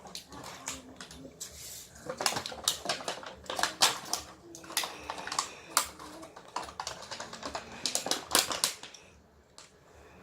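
Irregular clicking and clattering of hard plastic toy parts being handled and pressed together while a transforming plane-robot toy is assembled.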